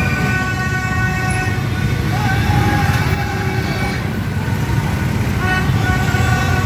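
Horns tooting and held over a steady rumble of street traffic, with crowd voices mixed in.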